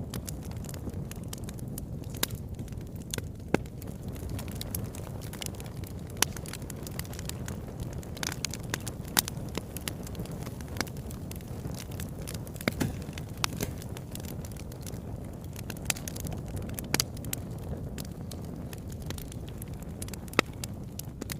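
Wood fire burning in a fireplace: a steady low rush of flames with irregular crackles and pops from the burning logs, a few sharper pops standing out.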